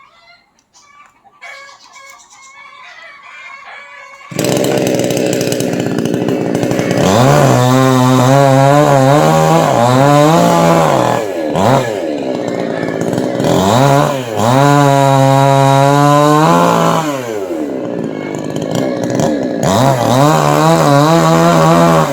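Chainsaw starts abruptly about four seconds in and runs loud, revving up and down several times.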